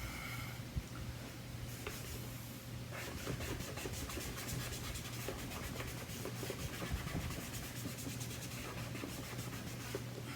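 Rubbing and wiping on the plastic cover of a solar LED light as plastic cleaner is worked off it, in quick back-and-forth strokes that get faster and denser about three seconds in.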